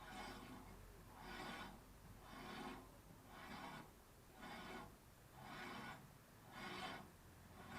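Faint, soft rasping rub repeating about once a second, from the table saw's blade being turned back and forth by hand while arbor runout is measured.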